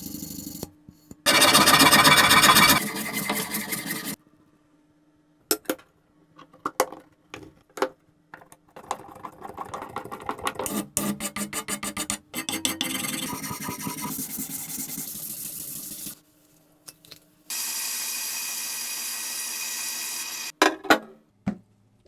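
Hand-tool work on a metal cleaver in a run of short clips: a loud burst of abrasive noise early on, scattered knocks and clicks, then many quick rubbing strokes of filing or sanding. A steady, even machine noise runs for about three seconds near the end, followed by a few knocks.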